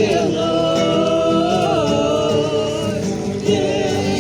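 Several voices singing together unaccompanied, holding long drawn-out notes that slide from one pitch to the next.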